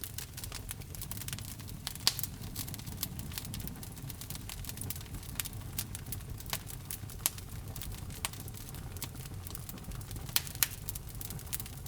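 Wood fire burning in a fireplace: irregular sharp crackles and pops over a low steady rumble of the flames, with a few louder pops.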